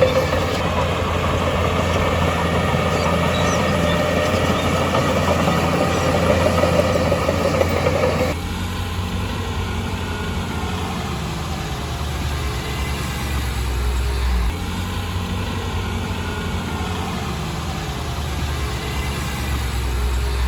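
Heavy diesel earthmoving machinery running steadily. About eight seconds in the sound changes abruptly to a quieter, lower engine sound.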